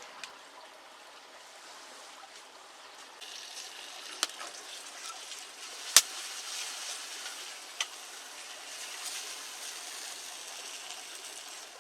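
Sausage patties sizzling in a pan over a campfire, a steady frying hiss that grows brighter about three seconds in. Sharp pops come now and then, the loudest about halfway through.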